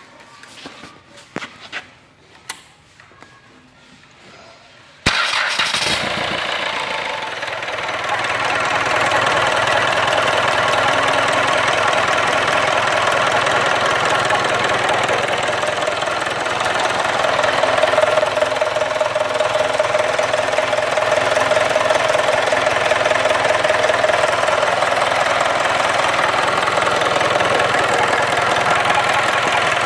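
Reconditioned Mitsubishi 4D32 four-cylinder diesel engine starting about five seconds in, after a few light clicks, then running steadily on test.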